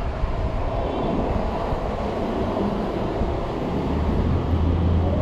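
Wind rushing over the microphone of an e-bike rider, with a low traffic rumble that grows louder in the second half.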